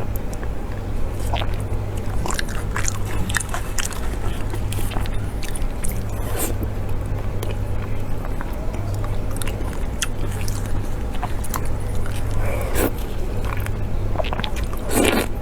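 Close-miked chewing and biting: a steady run of wet mouth clicks and smacks from someone eating, over a steady low hum.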